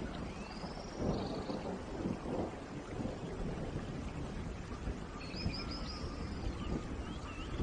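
Steady rain with a low rumble underneath. Short high gliding animal calls come through the rain near the start and in a quick series from a little past the middle.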